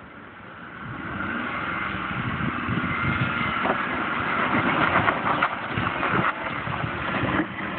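Four-wheel-drive vehicle's engine pulling under load as it moves forward over rough trail, getting louder about a second in, with irregular knocks and clunks from the tyres and suspension on the rough ground.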